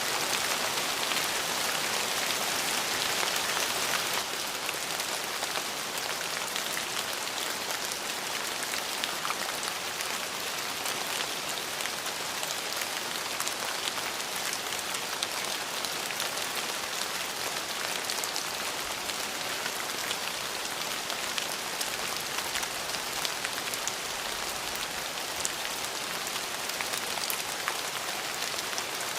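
Steady rain falling, a dense hiss dotted with many distinct drop hits on a surface. The rain gets a little quieter about four seconds in.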